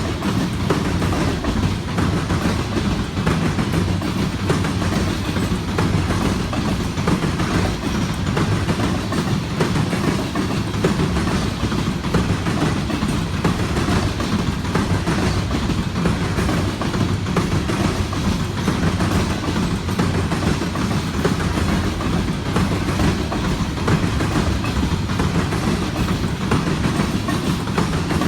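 Freight train rolling past at steady speed, its car wheels clicking over the rail joints in a continuous rumble.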